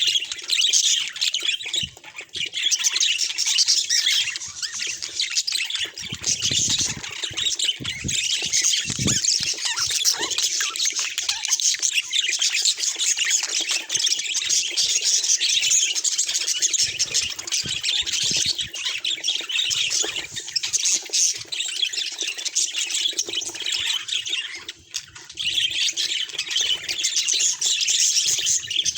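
Budgerigars chattering and warbling without a break, a dense run of high chirps and squawky notes that dips briefly twice.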